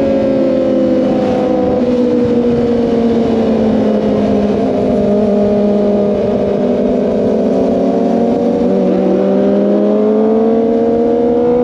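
Kawasaki ZX-25R's 250 cc inline-four engine running at high revs under way. Its pitch slowly falls over the first several seconds, then rises again near the end.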